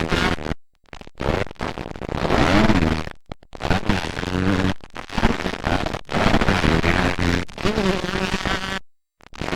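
Motocross dirt bike engines revving, their buzzing pitch climbing and falling again and again as the riders work the throttle and shift. The sound drops out completely for a moment three times, about half a second in, near three seconds, and near the end.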